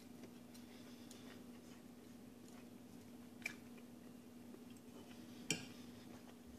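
Faint chewing of a mouthful of ramen noodles, with a few soft mouth clicks, the clearest about three and a half and five and a half seconds in, over a steady low hum.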